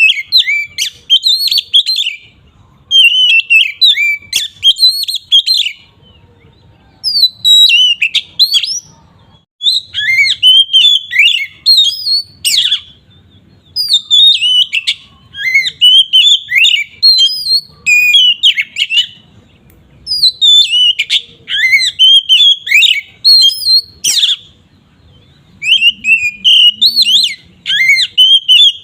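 Oriental magpie-robin singing loud, full 'ngeplong' song: phrases of quick, sweeping, slurred whistles, each lasting one to three seconds, with short pauses between them. It is a rival-provoking song of the kind played to make other magpie-robins worked up.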